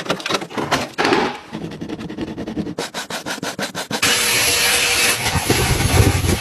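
Brush scrubbing strokes on a car surface, quick and rhythmic, speeding up to about six strokes a second. About two-thirds of the way in, a loud steady hiss with a low rumble starts, as from a spray or blower used in cleaning the car.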